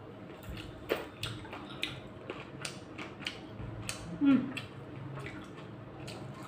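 Close-up chewing and biting on cooked chicken bones: a string of sharp cracks and clicks. There is a short vocal sound from the eater about four seconds in.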